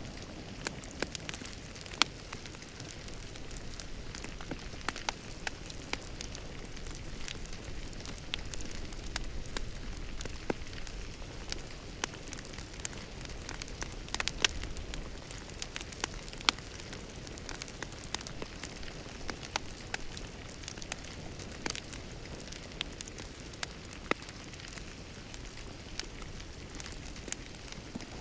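Wood fire crackling in a fireplace: a steady low hiss with irregular sharp pops and snaps, a few noticeably louder.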